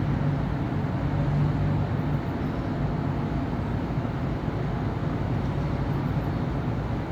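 City street traffic: a steady hum of cars and engines passing on a busy avenue, with a low engine drone that is strongest in the first two seconds and eases off a little after.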